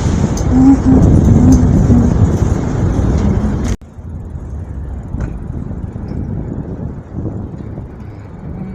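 Street and traffic noise heard from a bicycle riding through city streets. The noise is loud and steady, then cuts off abruptly about four seconds in, and quieter street noise follows.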